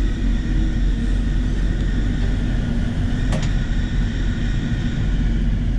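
Steady low rumble of a Class 180 diesel multiple unit in motion, heard from inside the carriage.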